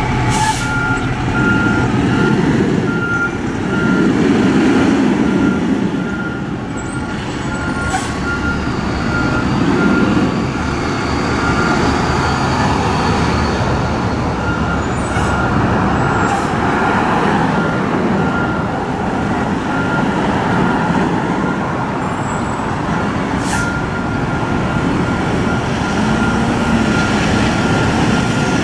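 Fire truck's diesel engine running with its reversing alarm beeping in a steady repeating pattern, the beeping pausing briefly near the end. A few short sharp hisses, like air-brake releases, cut in now and then.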